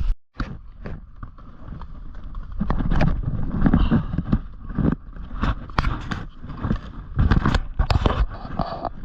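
A dirt jump bike being ridden over dirt, with irregular knocks, rattles and tyre scrapes over a constant low rumble of wind on the microphone.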